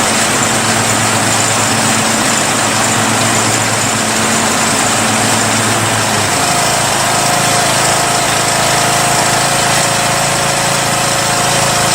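Lawn tractor's small gasoline engine running steadily; its note changes about halfway through.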